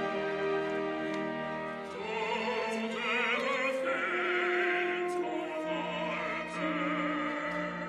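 Live opera music: the orchestra holds sustained chords, and a few seconds in a solo singer enters with a sung line that has a wide vibrato.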